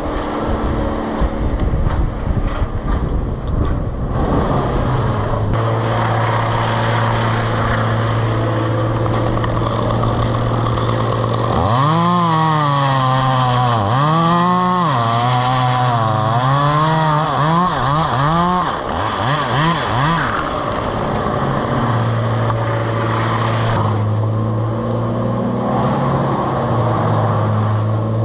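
Two-stroke chainsaw idling, then revved hard for about seven seconds with its pitch rising and dipping repeatedly, then dropping back to a steady idle.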